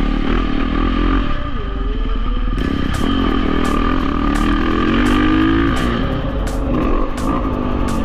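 Dirt bike engine running and revving, its pitch rising and falling, with the longest climb about five seconds in.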